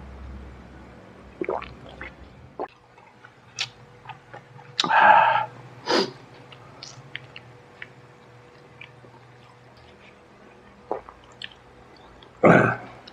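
Close-miked eating sounds: wet chewing, lip smacks and mouth clicks from a person eating smashed fried chicken (ayam geprek) by hand. Two louder, longer mouth sounds stand out, about five seconds in and near the end.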